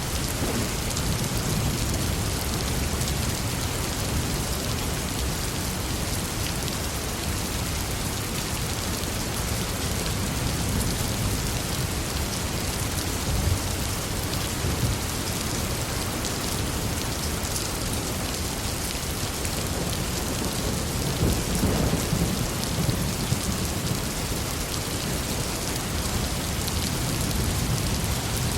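Heavy rain falling steadily, with low rolling thunder rumbling underneath and swelling a little past the middle.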